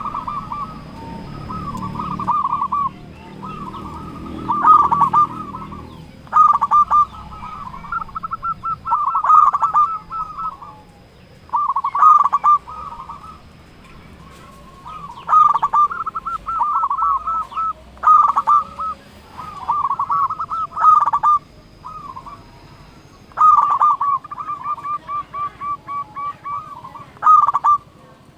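Local zebra dove (perkutut) cooing, phrase after phrase of rapid staccato coo notes with short pauses between.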